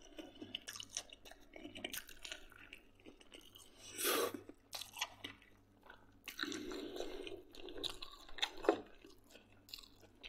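A person chewing a mouthful of pork-head sausage close to the microphone: irregular soft mouth clicks, with a louder burst about four seconds in and a longer noisier stretch around six to seven seconds.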